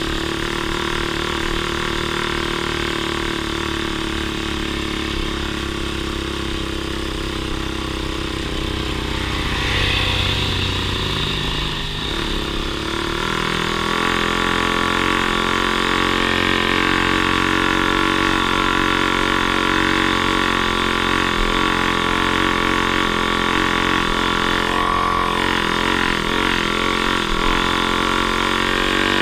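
Off-road vehicle engine running steadily, its pitch changing and getting a little louder about halfway through.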